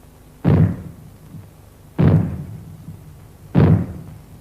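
Three loud bangs about a second and a half apart, each dying away in a short reverberant tail: the British civil defence fallout warning signal, given by maroons.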